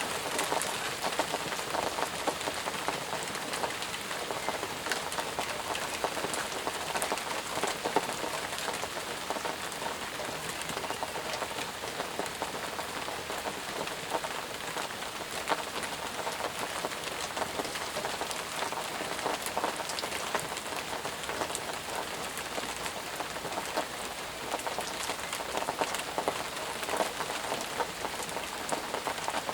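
Steady rain falling, with dense pattering of individual drops on surfaces.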